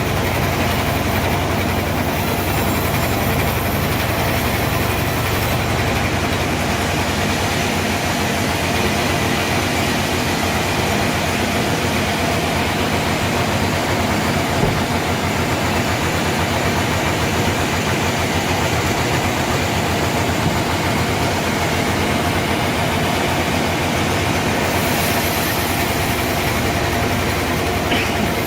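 Sawmill machinery running steadily with a continuous mechanical hum while a large trembesi log is sawn into boards.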